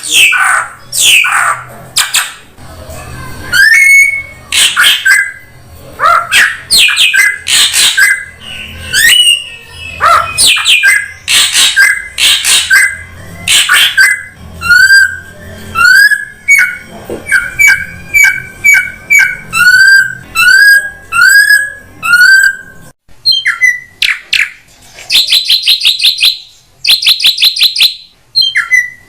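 Drongo lure calls: a dense string of loud, harsh squawks and short rising whistles, repeated about once a second. Near the end come two rapid, buzzing trills.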